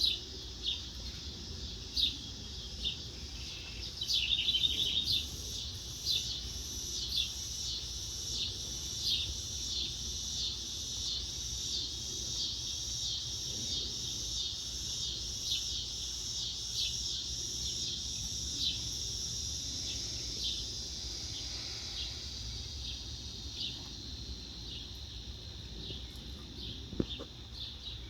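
Small birds chirping over a steady, high insect hum, with one chirp repeating at an even pace through most of the stretch and a brief fast trill near the start.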